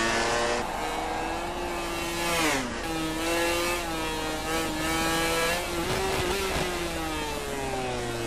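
MotoGP racing motorcycle engines running at high revs. The engine note drops sharply about two and a half seconds in, then holds a steady pitch.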